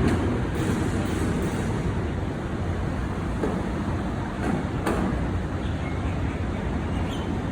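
Steady rumble of road traffic and truck engines, with a couple of brief sharper sounds midway.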